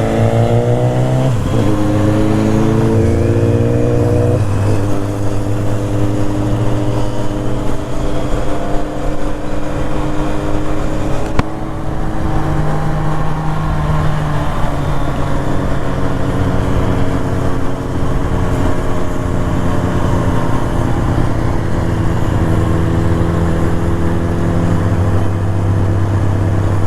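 A road vehicle's engine running under way. Its pitch climbs and drops back twice in the first few seconds, like upshifts, then holds nearly steady as it cruises.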